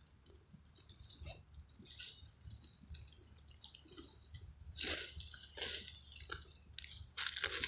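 Faint rustling and small crackles close to the microphone, over a soft hiss, from wild garlic plants and dirt being handled while picking. There are a few louder rustles past the middle.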